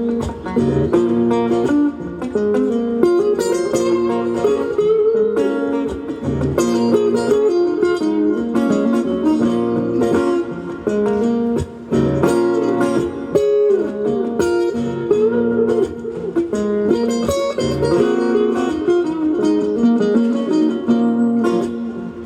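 Live band playing a slow blues, a guitar leading with bent, gliding notes.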